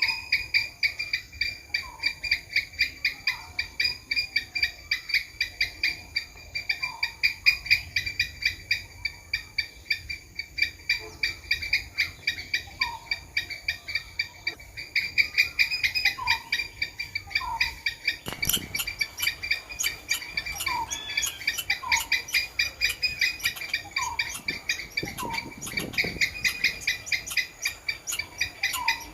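Squirrel calling: a fast, regular series of high notes at one steady pitch, several a second, with short lower chirps every second or two. A brief thump comes about two-thirds of the way through.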